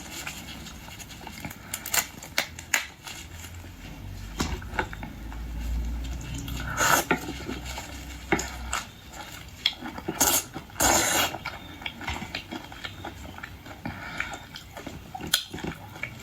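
Utensils clinking against dishes in a scatter of sharp clicks, with a few longer noisy bursts of eating sounds, one about 7 seconds in and more around 10–11 seconds.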